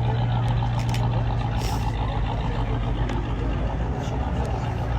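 Vehicle engine idling nearby with a steady low hum, and a short hiss about a second and a half in.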